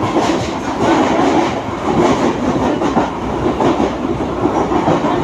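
Mumbai suburban local electric train running, heard from inside the moving carriage: a steady, loud rumble and rattle of wheels and coach.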